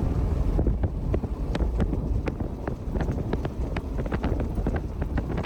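Strong wind buffeting the microphone, a heavy low rumble, with scattered sharp ticks and taps several times a second.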